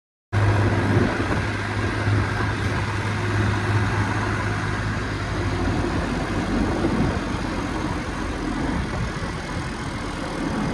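Tractor diesel engine running steadily, starting abruptly just after the beginning with a steady low hum.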